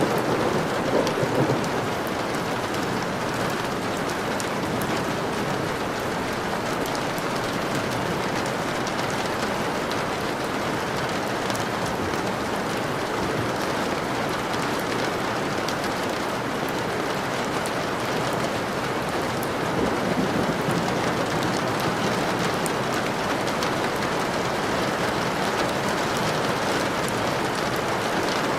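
Steady heavy rain falling, with individual drops ticking on a surface. A low rumble of thunder swells at the start and fades within a couple of seconds, and a fainter rumble comes about twenty seconds in.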